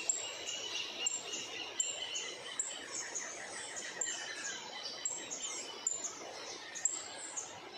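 Birds chirping: many short, high notes, some sliding down in pitch, several each second, with a quick trill of notes about two to three seconds in.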